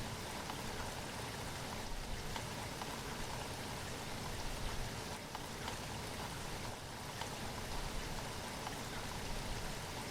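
Steady rainfall with scattered individual drops pattering on a surface.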